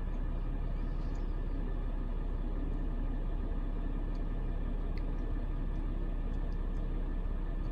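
Steady low rumble of breeze buffeting the phone's microphone, with a few faint short high ticks.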